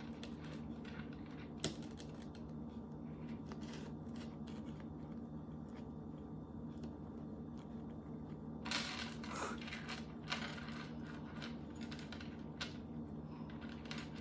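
Small hard pieces of a gingerbread kit clicking and rattling as they are handled on the table, with a cluster of rattles about nine seconds in. A steady low hum lies underneath.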